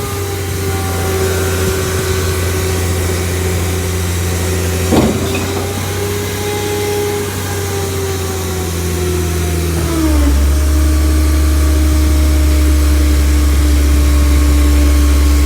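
Bridgeport Ranger recycling garbage truck running, its engine raised with a steady whine from the packing hydraulics that slowly falls in pitch. A short knock comes about five seconds in, and about ten seconds in the engine note drops lower and gets louder.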